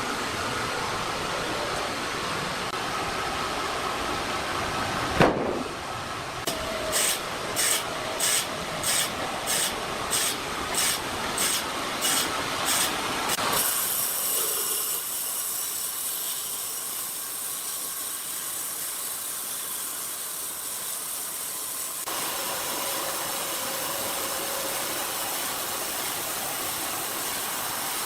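Steady workshop machinery noise. About five seconds in comes a sharp knock, then about a dozen evenly spaced strikes, roughly two a second, before the sound changes to a quieter steady machine noise.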